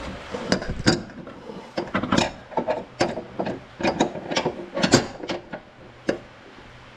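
Irregular clanks and knocks of hand tools working on metal mower parts, about a dozen sharp hits over several seconds, stopping about a second before the end.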